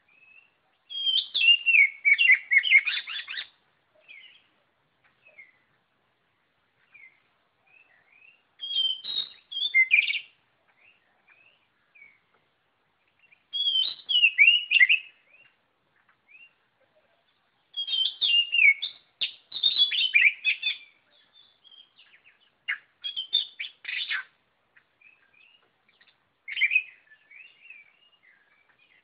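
Oriental magpie-robin singing vigorously, in about six bursts of rapid, varied whistled phrases separated by short pauses filled with soft single notes.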